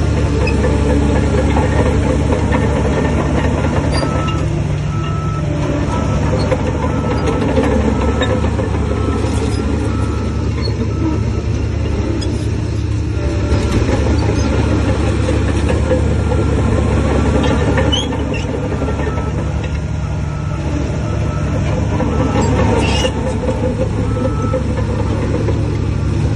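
Shantui bulldozer's heavy diesel engine running steadily under load, with a faint repeating high beep through much of it.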